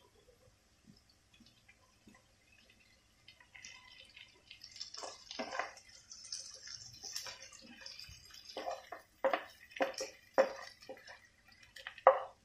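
Stuffed bitter gourds laid one by one into a pan of hot oil and fried masala, sizzling, starting about four seconds in. Then comes a run of sharp taps against the pan, about two a second, in the last four seconds.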